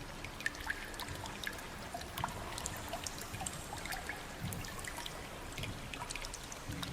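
Water trickling and dripping: a steady wash of running water with many small, sharp drips and splashes scattered through it.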